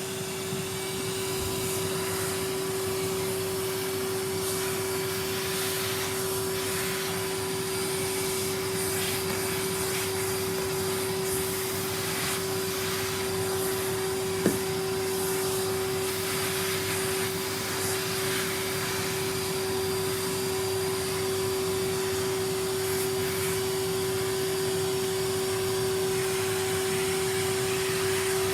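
Numatic Henry canister vacuum cleaner running steadily, a constant motor hum and hiss of suction, with one short click about halfway through.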